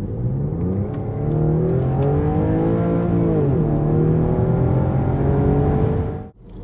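Car engine accelerating, rising in pitch and then holding, with a brief drop and recovery about three and a half seconds in; the sound cuts off abruptly near the end.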